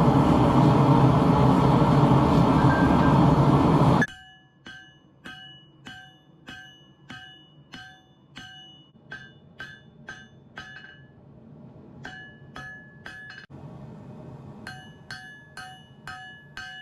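A loud steady roar that cuts off abruptly about four seconds in, followed by a hammer forging hot Damascus steel on an anvil: runs of sharp ringing blows about two a second, with short pauses between the runs.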